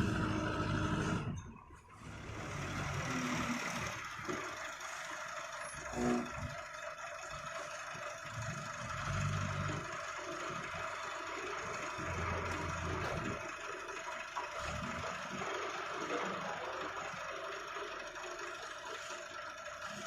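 Diesel engine of an old JCB backhoe loader running under working load. The sound dips out briefly about two seconds in, and a short tone sounds about six seconds in.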